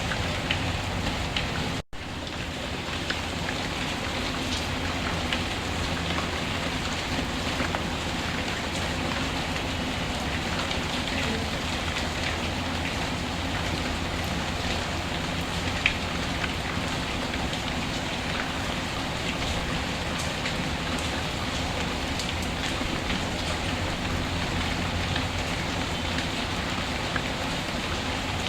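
Steady rain falling, with scattered drop ticks through it. It cuts out for an instant about two seconds in.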